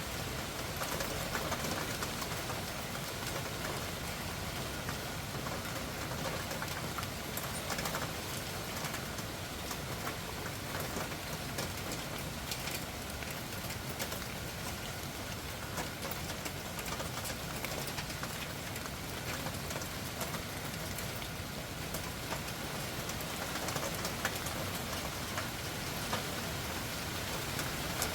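Loud, heavy rain falling steadily at night, an even hiss with many individual drops ticking sharply as they strike.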